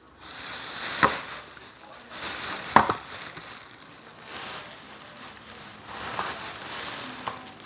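Slime being squeezed and worked by hand, giving a wet crackling, sizzle-like sound, with two sharp clicks about one and three seconds in.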